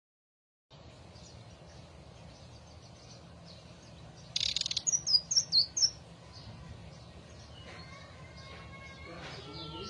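Indigo flycatcher (sikatan ninon) singing: after a short harsh burst about four seconds in comes a quick run of about six loud, high, sweet notes, with fainter chirps before and after. Lower sliding notes follow near the end, all over a low steady hum.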